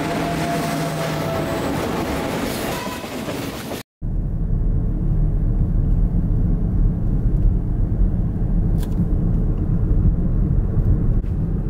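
A diesel locomotive passing close by, its engine noise carrying steady tones, until a sudden cut about four seconds in. After that, the low steady rumble of a car's engine and tyres heard from inside the cabin.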